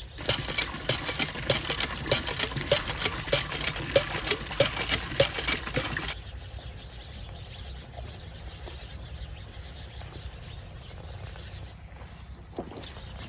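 Rhythmic mechanical clacking, about two sharp strokes a second, that stops abruptly about six seconds in, followed by a faint steady outdoor background.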